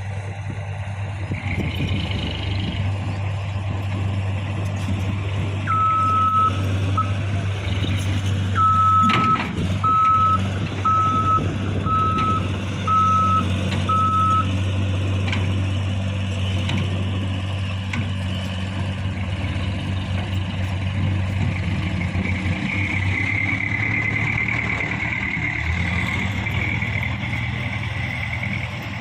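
Mitsubishi Canter HDX dump truck's diesel engine running steadily. Its reversing beeper sounds in a run of short, evenly spaced beeps from about six seconds in to about fourteen, with a single sharp knock near the start of the beeps.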